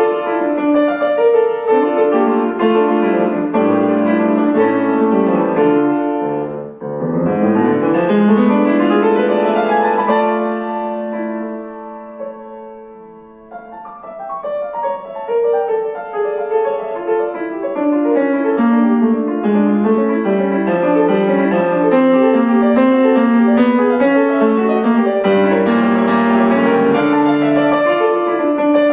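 Piano playing a classical piece. About seven seconds in a fast run sweeps down and then up the keyboard to a held chord that slowly dies away, and the playing picks up again about halfway through.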